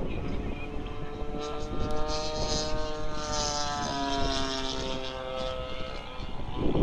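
A motor's drone, steady and then falling slightly in pitch as it fades, over gusty wind buffeting the microphone.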